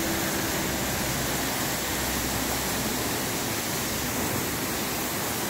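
Kempty Falls, a tall waterfall splitting into several streams, pouring down a rock face and heard close up as a steady, even rush of water.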